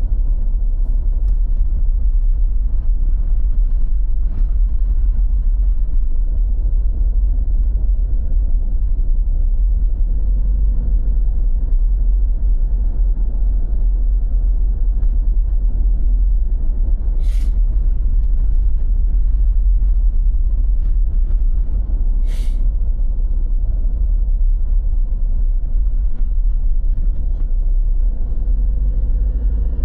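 Steady deep rumble with nothing else standing out, and two short hissing bursts a little past the middle, about five seconds apart.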